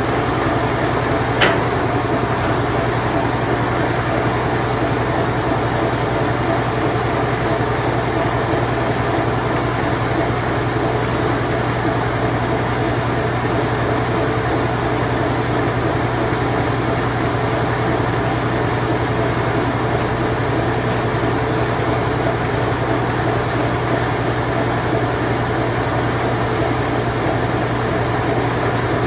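Late-1980s Whirlpool Imperial Clean Touch washing machine on its spin cycle, a steady low hum with an even whir over it. A single sharp click about a second and a half in.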